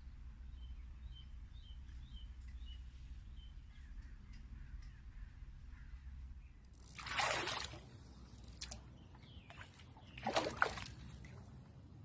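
A crow cawing twice, two harsh calls about three seconds apart, over a faint steady rush of river water; small birds chirp faintly in the first few seconds.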